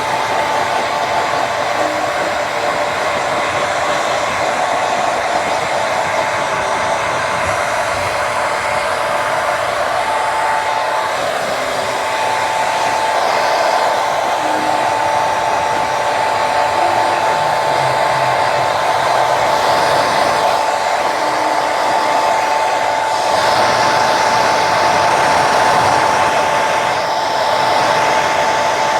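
Handheld hair dryer running steadily: a constant rush of air with a steady whine, drying hair.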